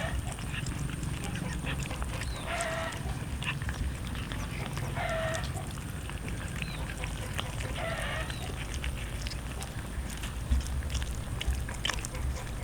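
An animal calling four times in short nasal cries, about one every two and a half to three seconds, with small scattered clicks between the calls.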